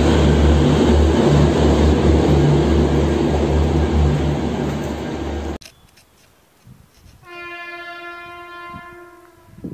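Train passing close, a loud rumble with a pulsing low drone that cuts off abruptly. After a short lull, a train horn sounds one steady blast of about two seconds.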